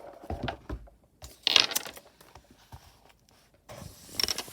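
Handling noises close to the microphone: a few soft knocks, then a brief sharp rustle about a second and a half in, and more rustling and clicks near the end.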